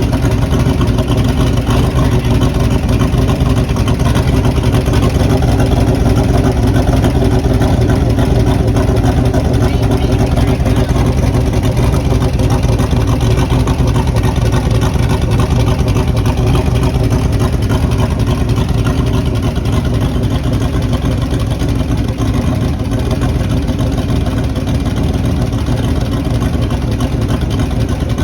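Turbocharged small-block Chevy V8 in a race truck, running loud and steady at an even engine speed.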